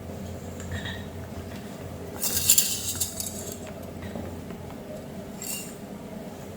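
Small hard objects clinking and rattling: a burst of clinks about two seconds in and a shorter one near the end, over a faint steady hum.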